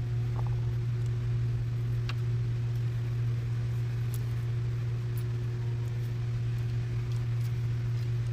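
A steady low hum with a fainter, higher steady tone above it, and a few faint light clicks.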